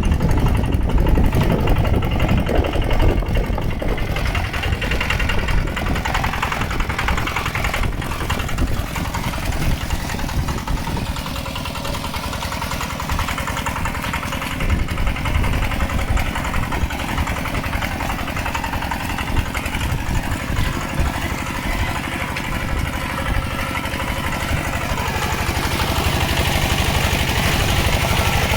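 Mini tractor's engine running steadily while it plows through water and mud, getting a little louder near the end.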